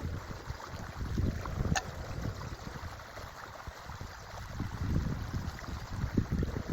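Forest creek flowing, with gusts of wind buffeting the microphone in low, uneven swells. A single sharp click comes about two seconds in.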